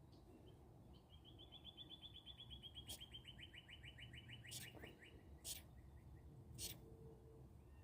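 Bird calls: a long, rapid trill of about eight notes a second, falling slightly in pitch, then four short, sharp chirps a second or so apart, heard faintly.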